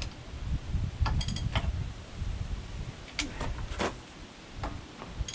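A hand wrench tightening a front-loader mounting bolt on a tractor: a few sharp metallic clicks and creaks over a low rumble that fades after about three seconds.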